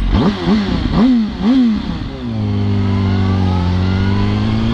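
Yamaha R1 inline-four sport-bike engine accelerating hard through the gears. It makes three quick climbs in pitch in the first two seconds, each cut off by an upshift, then pulls steadily with the pitch slowly rising.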